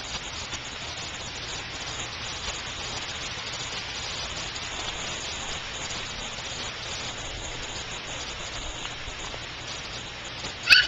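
Steady hiss of rain falling and spattering. Just before the end there is a brief, loud, high-pitched child's cry.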